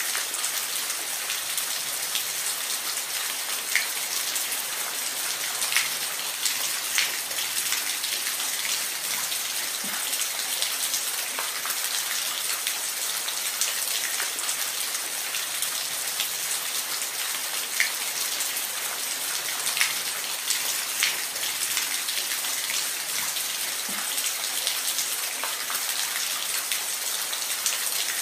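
Steady, even hiss of falling water, mostly high with little low rumble, dotted with scattered louder drips and splashes.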